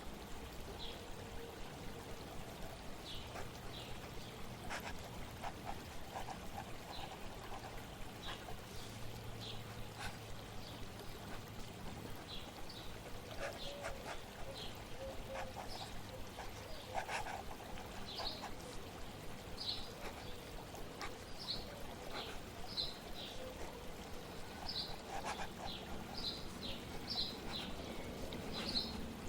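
Steady flowing water, with birds chirping in short high calls that come more often in the second half.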